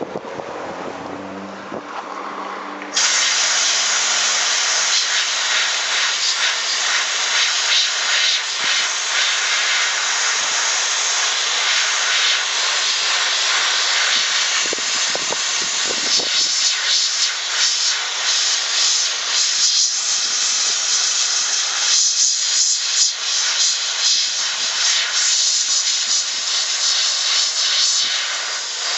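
Gravity-feed sandblasting gun blasting: a loud, steady hiss of compressed air and abrasive that starts suddenly about three seconds in, after a quieter hiss.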